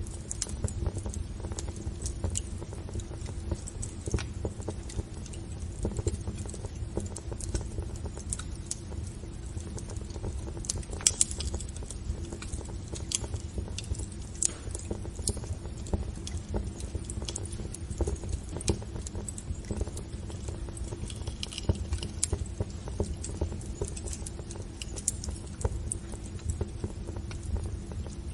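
Wood fire crackling in a fireplace: irregular sharp pops and snaps over a steady low rumble, with a few louder pops near the middle.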